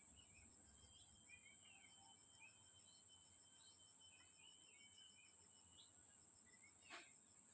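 Near silence: faint outdoor ambience of small birds chirping and a steady high insect trill, with one faint sharp click near the end.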